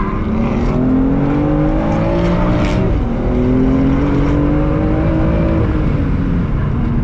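BMW M4's twin-turbo straight-six heard from inside the cabin under hard acceleration: revs climb, drop sharply at an upshift about three seconds in, climb again through the next gear, then ease off near the end.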